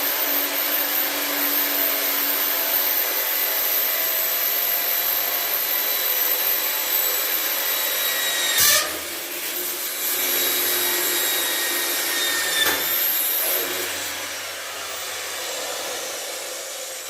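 Electric hand drill running under load, boring through a metal bracket. About halfway through there is a sharp knock and the drill dips for about a second before picking up again, then it gradually eases off near the end.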